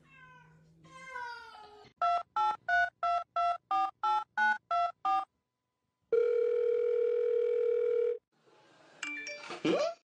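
Touch-tone telephone dialing: eleven quick two-note beeps, then after a short pause a steady ringing tone lasting about two seconds.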